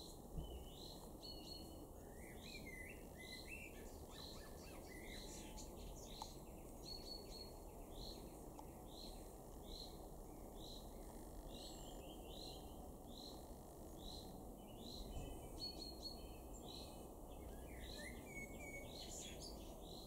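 Faint birdsong: a single high note repeated at an even pace, a little more than once a second, with short bursts of quick chirping twice, over a steady low background rumble.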